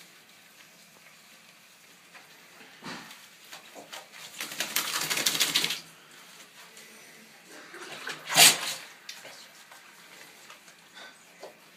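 Dog sneezing in a bath. A sharp, loud sneeze comes about eight and a half seconds in, after a fainter short sound near three seconds and a noisy, rapidly fluttering burst of about a second and a half around the middle.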